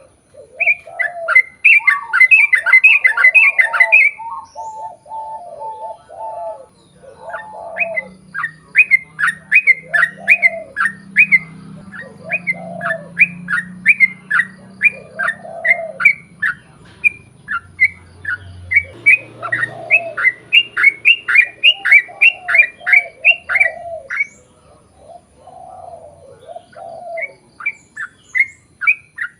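Yellow-vented bulbul singing long, rapid runs of short, sharp falling notes, mixed with lower bubbling phrases. There are brief gaps about four seconds in and again near the end.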